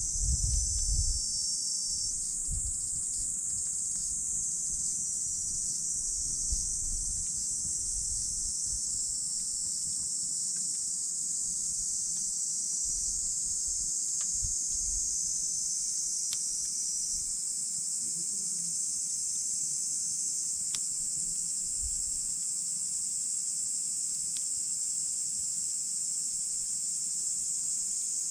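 Insects chirring steadily in a high, dense drone, with a few faint crackles and pops from a wood campfire. A low rumble sounds in the first couple of seconds.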